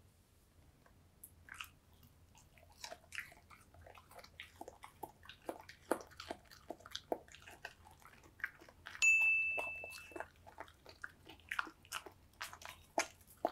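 A spaniel-mix dog chewing a piece of cooked zucchini, a dense run of quick clicks from her mouth. About nine seconds in a single short high ding sounds, louder than the chewing.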